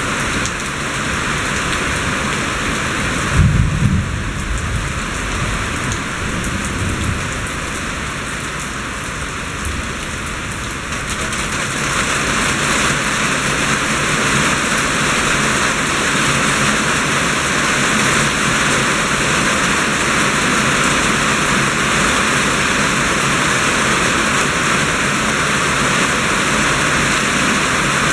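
Steady rain falling, with a short low rumble of thunder about three and a half seconds in. The rain gets louder about twelve seconds in and keeps on at that level.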